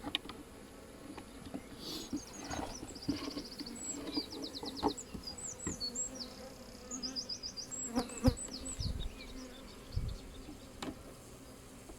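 Honeybees buzzing over an open hive, a steady hum, with a few sharp knocks from handling. A small bird sings quick trills of high repeated notes from about two seconds in until about nine seconds.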